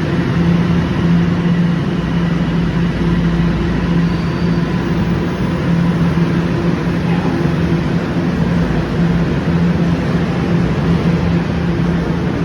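TTC Line 1 subway train running, a steady rumble with a constant low hum that does not change.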